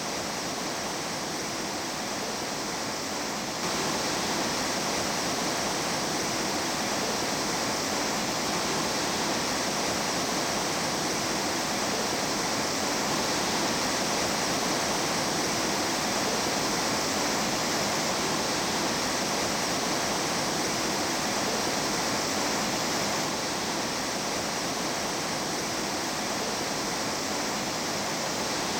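Mountain stream water rushing steadily over rocks. The rush jumps a little louder about three and a half seconds in and drops back abruptly near the end.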